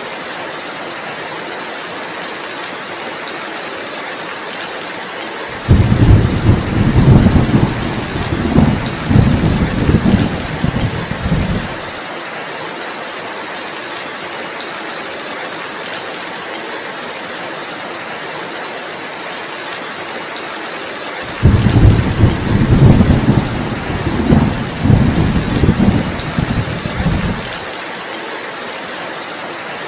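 Steady heavy rain falling. Two long rolls of thunder, one about six seconds in and one about twenty-one seconds in, each rumbling low for about six seconds and louder than the rain.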